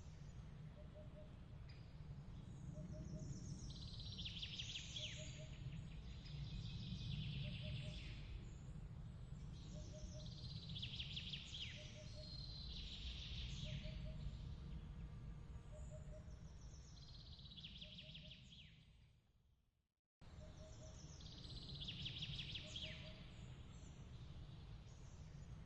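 Layered autumn-night ambience: a steady low breeze rumble, a soft double chirp repeating about once a second, and brief high, crackly bursts every few seconds. About nineteen seconds in it fades out to silence, then starts again abruptly.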